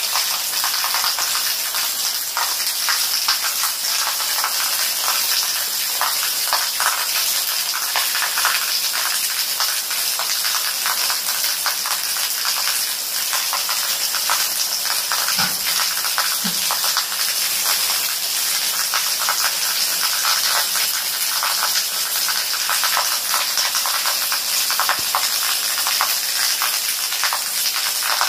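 Steady rain falling on leaves, a constant hiss with a dense scatter of small drop hits.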